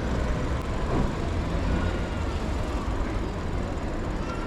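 Steady city street traffic noise heard from a moving bicycle, with a heavy low rumble.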